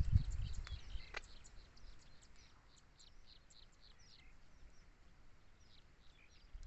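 Small birds chirping: a stream of short, high cheeps repeating several times a second. A few low thumps and rumble in the first second.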